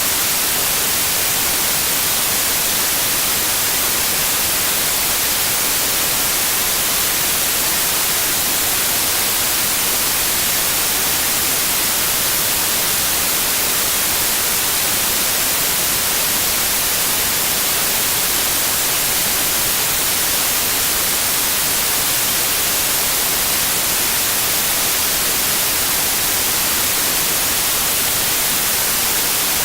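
Steady white noise: an even, unbroken hiss.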